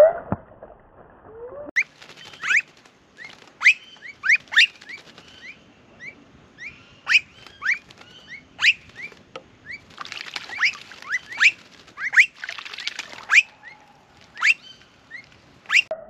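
Blue-faced honeyeaters calling: a string of short, sharp upward-sweeping whistles, sometimes several a second, with two brief spells of splashing from a bird bathing about ten and twelve seconds in.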